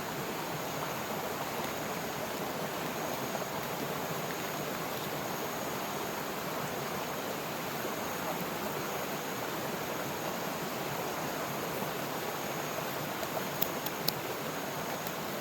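Steady rush of running water from a river stream, with two or three short sharp clicks near the end.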